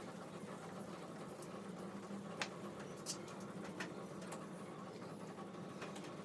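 A few faint, sharp clicks, about one every two-thirds of a second in the middle stretch, over a steady low hum.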